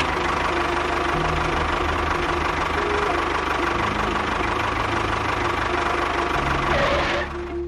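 A small motor running steadily with a loud rattling buzz, stopping abruptly near the end, over background music.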